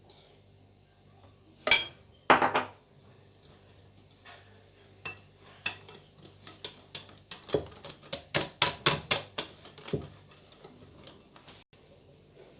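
A utensil clinking and scraping against a mixing bowl while cake batter is stirred: two louder knocks about two seconds in, then a quick run of clicks, about three or four a second, for several seconds.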